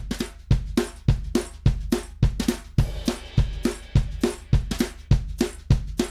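Drum kit groove of kick, snare, hi-hat and cymbals playing a steady mid-tempo beat, heard as a drum-bus mix through a compressor and EQ plugin. A cymbal wash comes in about halfway through.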